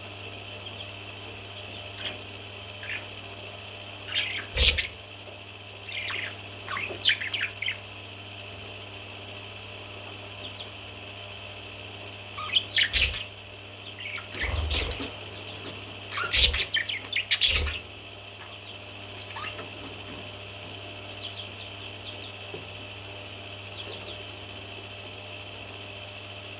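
Baby parrots chirping and squawking in several short bunches of calls, with quieter stretches between, over a steady low hum.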